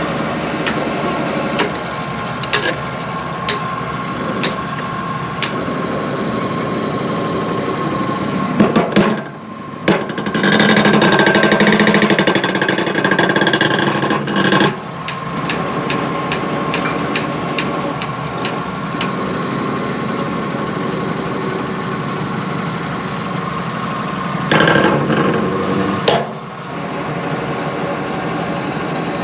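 Metal tool work: scattered sharp clicks and knocks over a steady machine hum, with a louder stretch of several seconds about a third of the way in.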